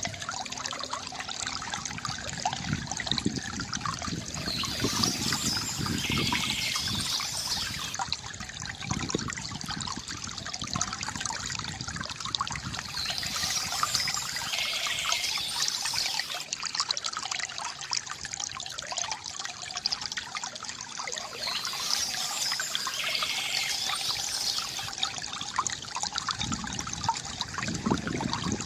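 Water from a bamboo fountain trickling and splashing steadily, with a higher-pitched sound coming back about every eight or nine seconds.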